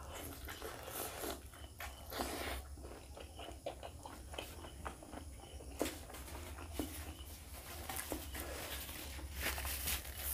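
Close-miked eating sounds: wet chewing and lip smacks from a mouthful of egg curry, with the squish of fingers mixing rice into gravy on a plate. Irregular clicks and smacks sit over a steady low hum.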